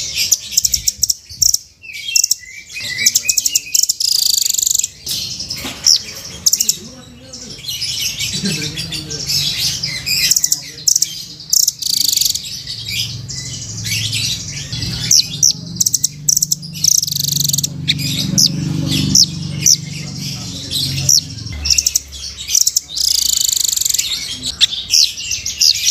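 Velvet-fronted nuthatch (rambatan) calling: rapid, high-pitched chirps and short trills in dense runs with brief gaps.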